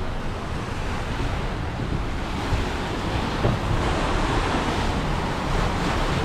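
Wind buffeting the microphone over a steady rush of water washing past a sailboat under way.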